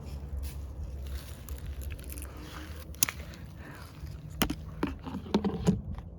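Dry bird seed being poured and scattered, a crunchy, crackling rustle with a few sharp clicks.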